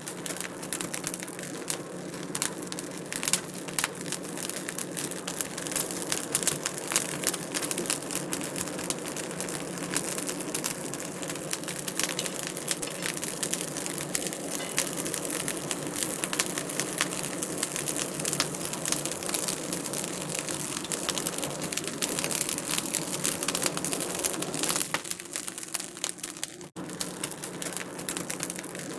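Wood fire crackling in a fireplace: a dense, continuous stream of small crackles and pops over a steady hiss, which cuts out for an instant near the end.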